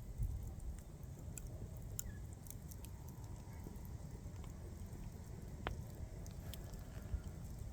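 Wood bonfire crackling: scattered sharp pops and snaps over a low steady rumble, with one louder snap near the end.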